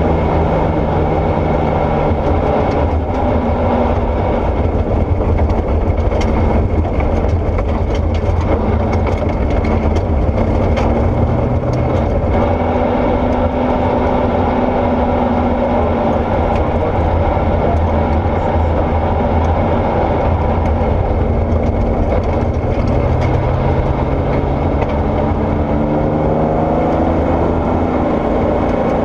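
Porsche 964 rally car's air-cooled flat-six running under load on gravel, its pitch shifting with the throttle and rising again near the end, with scattered sharp clicks over the engine.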